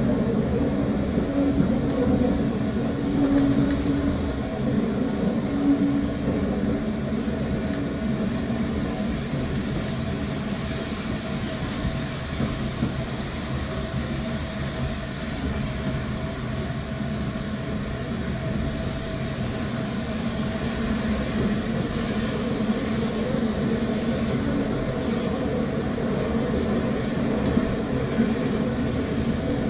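Heritage railway carriage running along the line, heard from inside the coach: a steady rumble of wheels on rail with a continuous hum.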